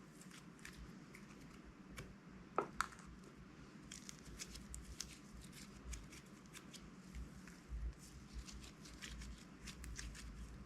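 Slime being squished and worked by hand: irregular small crackles and sticky clicks with dull handling thumps, and one brief falling squeak about two and a half seconds in.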